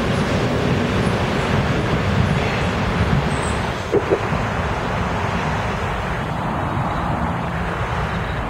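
Electric commuter train running past close by, a steady rumble of wheels on rail that eases off after about three seconds. About four seconds in come two very short toots close together, followed by steady noise of an approaching train and road traffic.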